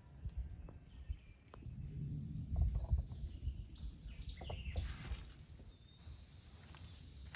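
Outdoor ambience: a low rumble, loudest about two to three seconds in, with a few short bird chirps high above it and some light clicks.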